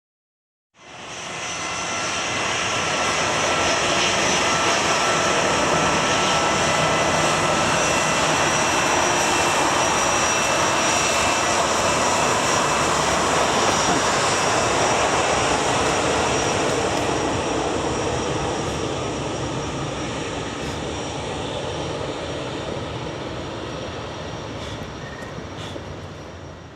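Jet airliner's engines, a loud rushing noise with several steady high whines, holding level for about fifteen seconds and then slowly fading before cutting off abruptly at the end.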